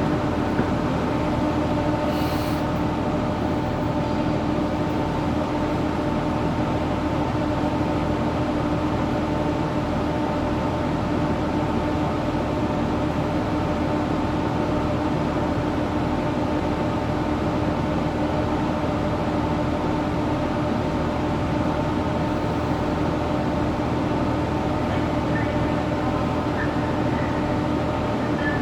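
Passenger train running steadily, heard from inside the carriage: an even rumble with a constant multi-tone hum that holds without change.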